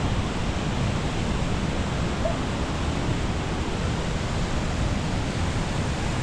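Steady, even rush of ocean surf with a constant low rumble underneath.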